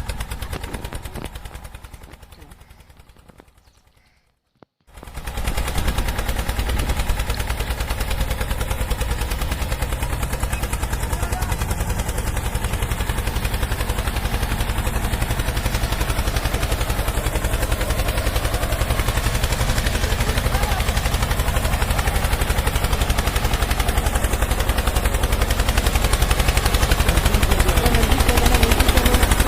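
A mini tractor's small engine running with a fast, even chatter of pulses. It fades and stops about four seconds in, then starts again a second later and runs steadily.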